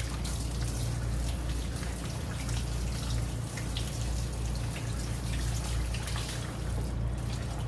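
Water splashing and dripping as lettuce leaves are rinsed, with many small sharp splashes over a steady low hum; the splashing eases off near the end.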